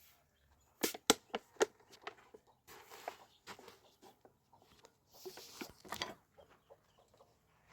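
A quick run of four sharp knocks about a second in, followed by scattered lighter clicks and knocks and a brief rustle, like objects being handled.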